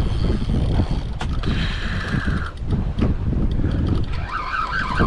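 Wind buffeting the microphone on a boat while a fishing reel is worked against a large, strong fish, its mechanism ratcheting, with a steady higher whir about two seconds in.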